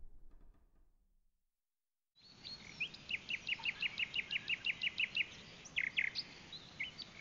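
String music fading out, a moment of silence, then birdsong over a steady hiss: a bird repeating a fast run of sharp chirps, about six a second, with a few different calls in between.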